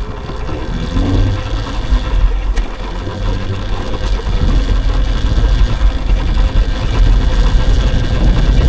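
Electric dirt bike being ridden: rumbling wind buffeting and ride noise with a faint steady whine, growing louder over the last few seconds as it picks up speed.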